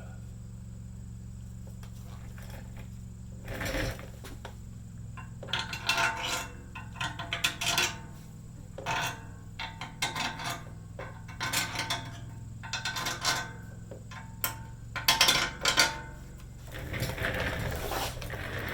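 Metal clinking and clanking in irregular clusters as tailgate ladder parts are handled and fitted. A steady low hum runs underneath.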